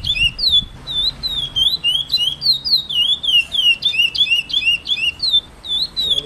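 Chestnut-bellied seed-finch (curió) singing: a fast, continuous run of clear, swooping whistled notes, several a second, with a brief lull about five and a half seconds in.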